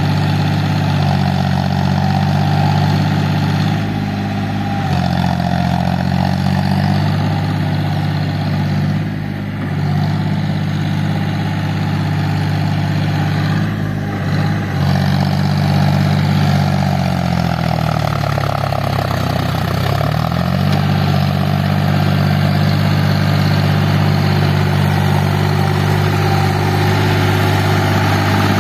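John Deere tractor's diesel engine running steadily, its speed shifting a few times and dipping down, then rising back up, about two-thirds of the way through.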